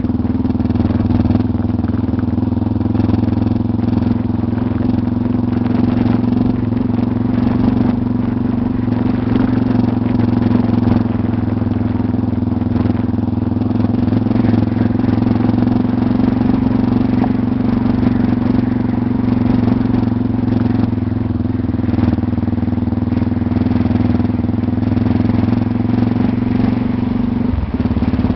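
Motorcycle engine running at a steady speed while riding on a dirt road, holding one even pitch, with a brief drop in engine sound just before the end.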